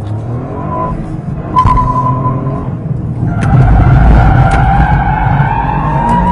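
Toyota GR Corolla's turbocharged three-cylinder engine revving up and down while the tyres squeal in a drift. The squeal comes in short spells in the first half and runs on steadily from about halfway.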